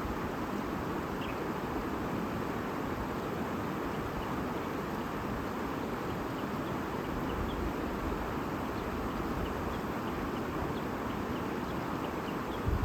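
A stream babbling steadily, with faint, short, high chirps of small birds scattered through it, more of them in the second half.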